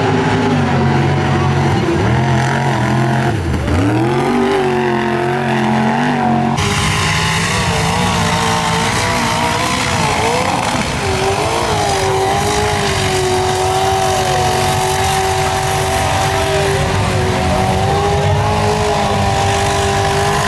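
Mud truck engines revving hard, the pitch rising and falling as the throttle is worked. About six seconds in the sound switches abruptly to an engine held at a steady high rev.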